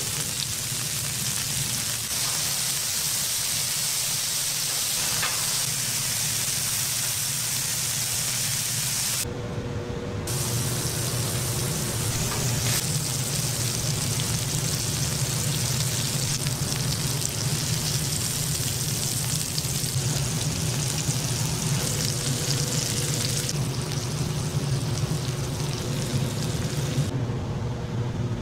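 Bacon and burger patties sizzling and frying on a flat-top griddle. About nine seconds in, a steady low hum joins the sizzle and stays under it.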